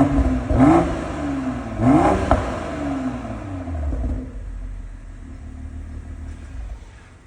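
BMW X3 M40i's B58 3.0-litre turbocharged straight-six revved in three quick throttle blips through a Brillante valved aftermarket exhaust. Each blip rises sharply and falls back, with a single sharp pop just after the third. It then settles to idle and grows gradually quieter.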